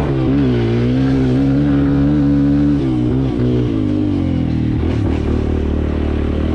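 Kawasaki KLX 140L dirt bike's single-cylinder four-stroke engine running under way at a steady pitch, then dropping in revs about three seconds in and settling at a lower steady pitch.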